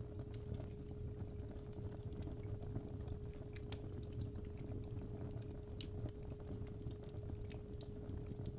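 Crackling fireplace fire, irregular small pops and snaps over a low rumble, with a steady 417 Hz sine tone held underneath.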